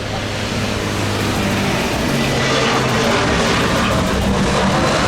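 Jet airliner engines, a steady noise that grows slowly louder as the aircraft draws near.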